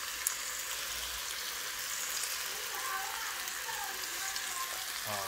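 Shredded bamboo shoots frying in oil in a wok: a steady sizzling hiss, with one sharp click about a third of a second in.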